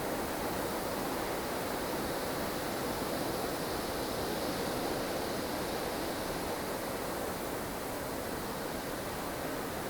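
Strong wind in a blustery snowstorm, a steady rushing that swells slightly and eases a little past the middle.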